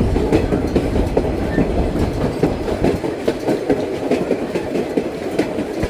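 Passenger car of the narrow-gauge White Pass & Yukon Route railway running along the track: a steady low rumble with frequent irregular clacks and rattles from the wheels and car.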